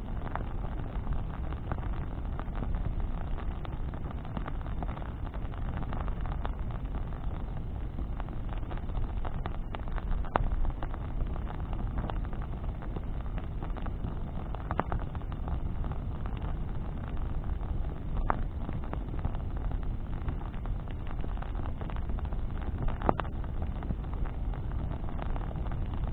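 Bonfire of branches burning: a steady low rumble with a few sharp pops from the burning wood, several seconds apart.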